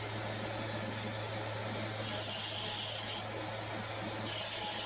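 Electric grinder running with a steady hum, grinding a steel knife blade to take off forge scale and sharpen the edge. A higher hiss comes in twice, about two seconds in and again near the end, as the blade is pressed to the grinder.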